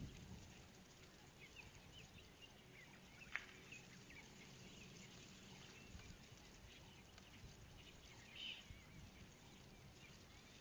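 Near silence with faint, scattered high bird chirps, a single sharp click a little over three seconds in, and a short louder chirp near the end.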